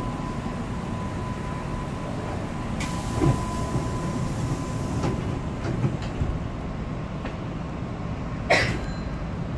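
Hankyu 7000 series electric train heard from on board, with a steady low rumble throughout. A thin steady tone stops about five seconds in. A burst of hiss comes in about three seconds in, with a few knocks, and a short sharp sound is heard near the end.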